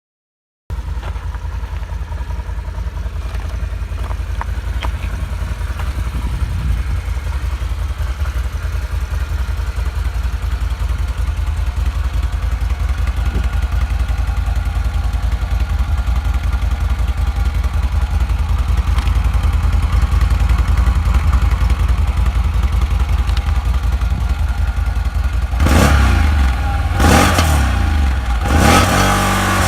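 Can-Am Renegade 1000R ATV's V-twin engine through an aftermarket Yoshimura exhaust, running with a deep, steady exhaust pulse that slowly grows louder. Near the end it revs up and down several times.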